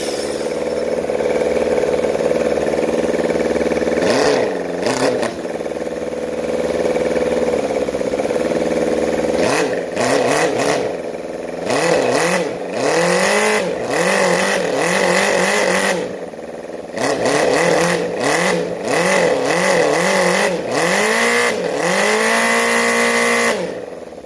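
Guang Su D6 four-cylinder four-stroke twin-cam gasoline engine running, its speed blipped up and down in a string of quick revs. It shuts off abruptly near the end.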